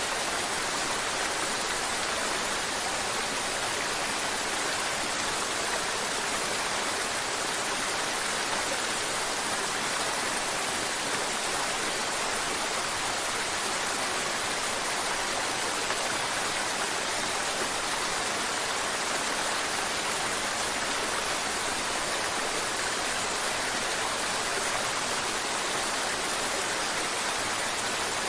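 Mountain river water babbling and rushing over rocks, a steady even flow with no breaks.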